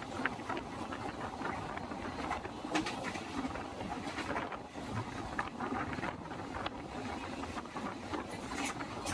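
Express train running at speed: a steady rumble mixed with wind noise, with a few sharp clicks every couple of seconds.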